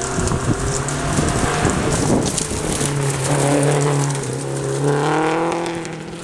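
Ford Capri hillclimb car accelerating hard up a narrow road and passing close by, its engine revving with the pitch rising, then holding as it goes past, then fading away near the end.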